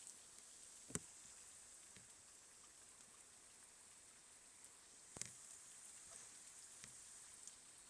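Faint, steady rain hiss with a few single drops tapping a surface close by: a sharp tap about a second in, another about five seconds in, and lighter ones near the end.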